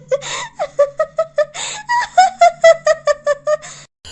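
A single high-pitched laugh, a rapid string of 'ha-ha' pulses broken by two gasping in-breaths, cutting off sharply near the end.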